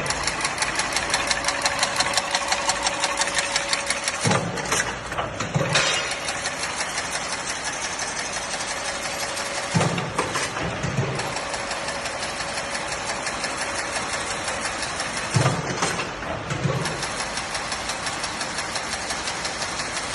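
Chain-link mesh making machine running: a rapid, even mechanical clatter, with a heavier pair of clunks about a second apart that repeats roughly every five and a half seconds as the machine cycles.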